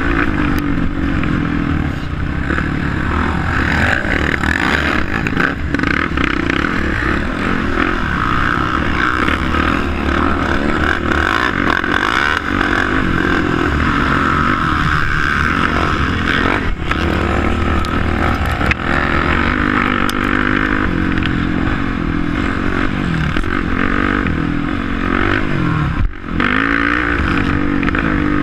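Racing quad bike engines running hard without a break, their pitch rising and falling as the riders rev and ease off, with a brief dip near the end.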